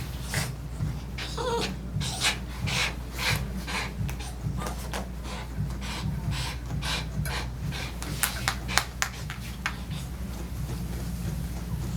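Grooming tool working through a dog's coat: an irregular series of short rubbing strokes, several a second, becoming sparser near the end, over a low steady hum.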